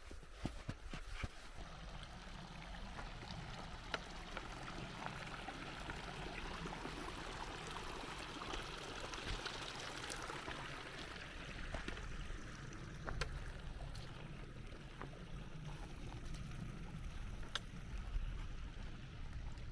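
Steady rush of flowing water, like a stream, with a few faint clicks.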